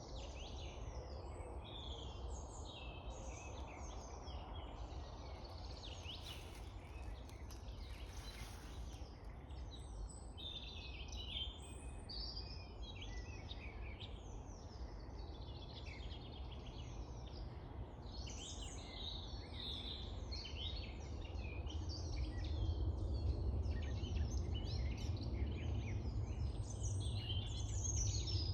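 Several woodland songbirds singing at once, their chirps and trills overlapping without a break. A low rumble underneath grows louder over the last several seconds.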